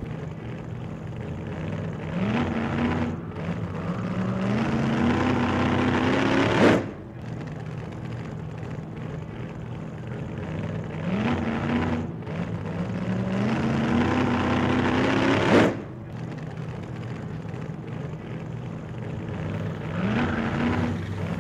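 Car engine revving up through the gears in rising steps, each run ending in a sharp high peak and cut-off. The same run repeats about every nine seconds, three times over.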